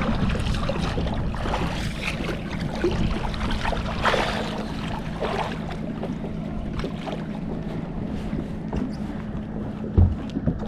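Water sloshing and splashing around a kayak, with wind on the microphone and a steady low hum underneath; a single thump near the end.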